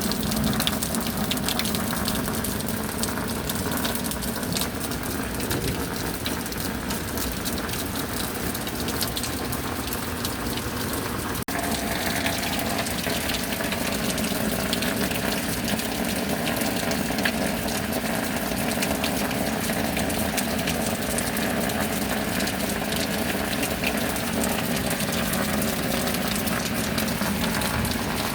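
Steady heavy rain: a dense, even hiss of falling water with countless fine drop ticks. A brief dropout about eleven seconds in, after which the rain continues much the same.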